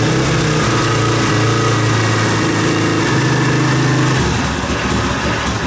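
Single-cylinder four-stroke motorcycle engine running at a steady idle after its first start of the spring, with its carburettor freshly primed. Its note changes about four seconds in.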